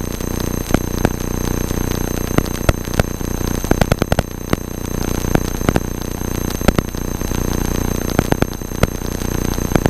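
Cockpit audio of a Cessna 172 in flight: a steady low engine drone overlaid with electrical interference, irregular sharp clicks and crackles and a thin steady high whine.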